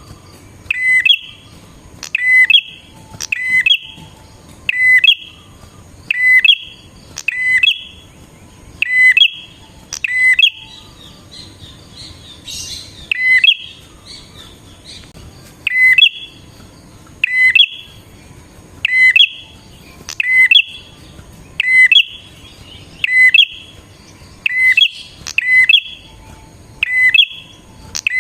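Prinia (prenjak) calling: a loud, sharp, short note repeated about once a second. Around the middle there is a pause of a few seconds with softer twittering, then the calls resume.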